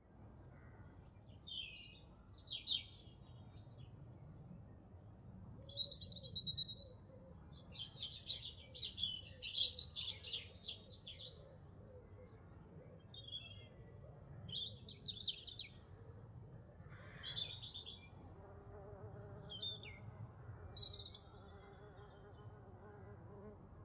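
Wild songbirds singing in short, repeated chirping phrases over a low background rumble. From about 18 seconds a faint steady hum joins in.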